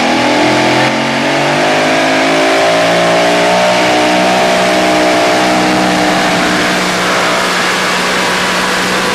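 Super modified four-wheel-drive pulling truck's engine running loud at high revs under load. Its pitch climbs over the first second or two, then holds nearly steady.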